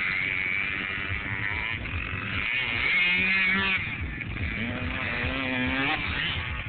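Kawasaki KX65 motocross bike's small two-stroke single-cylinder engine, revving up and down with its pitch climbing and dropping as it accelerates.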